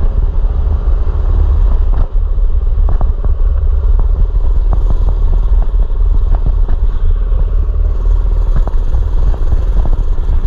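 Mini bike engine running while riding, under a heavy, steady low rumble, with scattered short clicks and rattles.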